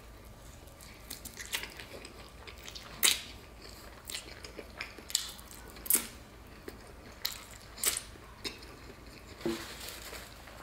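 Close-up eating of a crispy battered fried turkey leg: chewing with sharp crunches of the fried coating, scattered roughly a second apart.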